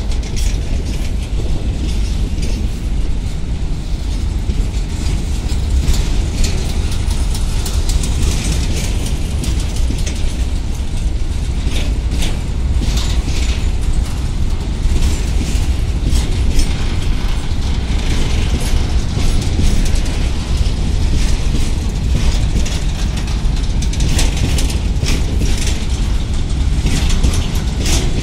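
Covered goods wagons of a long freight train rolling past close by as it picks up speed: a steady heavy rumble of wheels on rail with frequent metallic clanks and rattles from the wagons.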